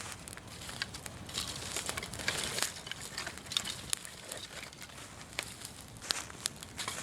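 Bonfire of dry fallen leaves crackling, with scattered sharp pops and bursts of rustling.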